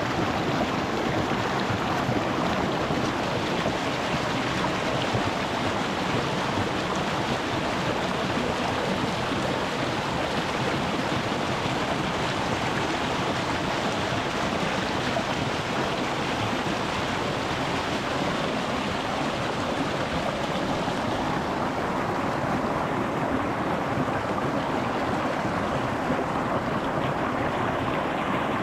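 Small rocky mountain stream flowing and babbling over stones, heard close to the water as a steady rush.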